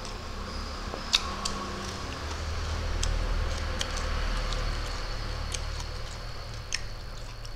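Scattered soft clicks and smacks of chewing with the mouth closed while fried prawns and rice are eaten by hand, over a low steady hum.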